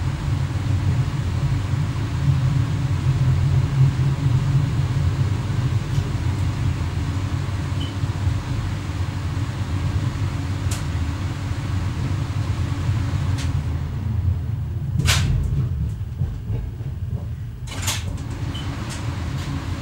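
An X11 electric multiple unit running along the line, heard from inside the driver's cab: a steady low rumble. A few sharp clicks stand out, the loudest about fifteen and eighteen seconds in.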